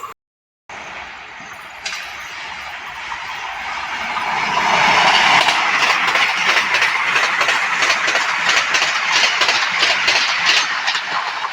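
A train passing close by, growing louder over a few seconds, its wheels clattering over the rail joints in a rapid run of knocks.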